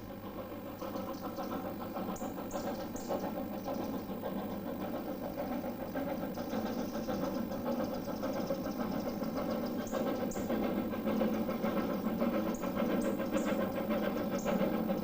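A train running on the heritage railway line, a steady rumble with a fast rhythmic beat and scattered short high clicks, growing gradually louder.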